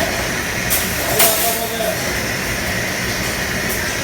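Steady hum and hiss of a large industrial kitchen's machinery and ventilation, with a couple of brief clatters about a second in and a faint voice in the background.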